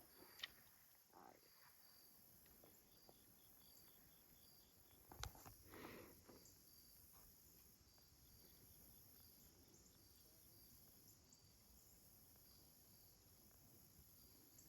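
Near silence with faint insect chirping, short high pulses repeating evenly. A single sharp click about five seconds in, followed by a brief soft noise.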